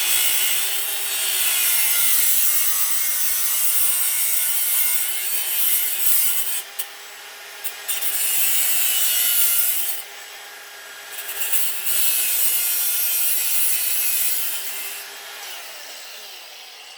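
A saw cutting through a brass water heater valve fitting clamped in a vise, in runs of several seconds with a wavering whine over the cutting noise, pausing briefly twice and easing off near the end.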